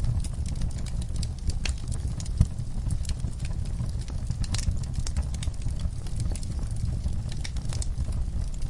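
Wood fire crackling in a fireplace: frequent sharp pops and snaps over a steady low rumble, with one louder pop a little past two seconds in.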